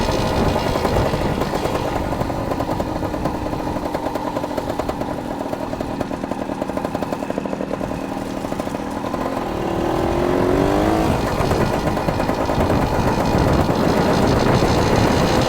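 Dirt bike engine running at low, steady revs with an even putter, then revving up and getting louder about ten seconds in.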